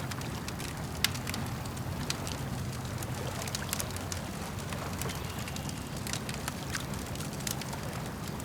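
Campfire crackling, with irregular sharp pops throughout and the loudest about a second in, over a steady low wash of lake water.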